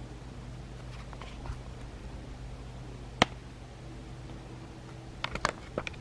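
A single sharp click about three seconds in, then a quick run of small clicks and taps near the end, over a low steady hum.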